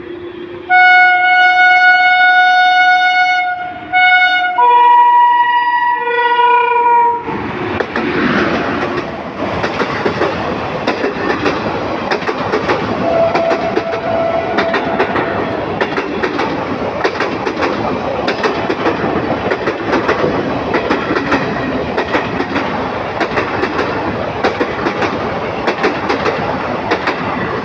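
Express passenger train running through a station without stopping. The locomotive sounds its horn in two long blasts, the second lower in pitch. The coaches then rush past with a steady clickety-clack of wheels over the rail joints.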